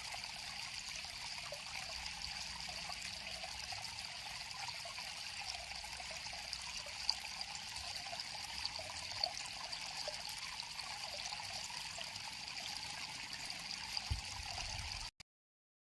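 River water flowing and trickling steadily, with small splashes through the rush; it cuts off abruptly into silence near the end.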